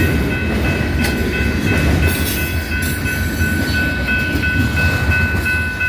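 Freight train rolling past, a steady low rumble with scattered wheel clicks and clanks. A steady high-pitched ringing of several tones runs throughout.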